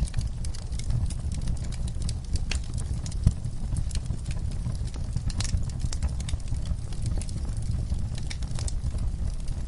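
Wood fire burning in a fireplace: a steady low rumble of the flames with irregular sharp crackles and pops, one louder pop about three seconds in.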